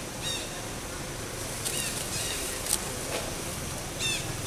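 About four short, high chirps, with a sharp click a little before three seconds in, over a steady low outdoor rumble.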